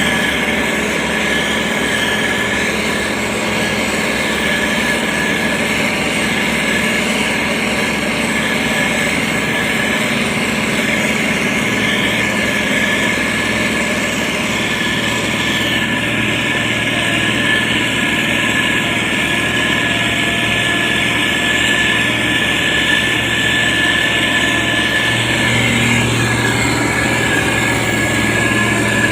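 Heavy road-construction machine's diesel engine running steadily, with a steady whine above the engine note. A deeper engine tone strengthens near the end.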